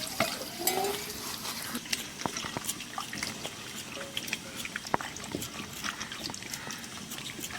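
Chicken curry cooking in a pan over heat, with irregular crackles and pops throughout.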